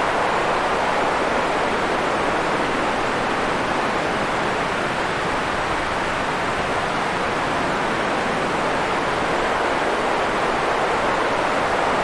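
Steady synthetic noise, a smooth even hiss weighted toward the middle and lower range, like pink noise, with no changes or events.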